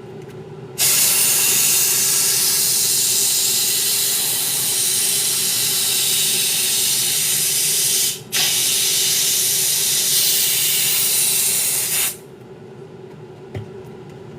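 Two long bursts of hissing spray: one of about seven seconds, then after a momentary break one of nearly four seconds, over a steady low hum.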